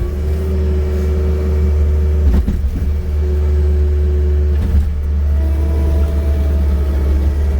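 John Deere 330G skid steer's diesel engine running steadily under work while clearing snow, a deep drone with a higher whine that shifts in pitch. A couple of brief knocks come about two and a half and five seconds in.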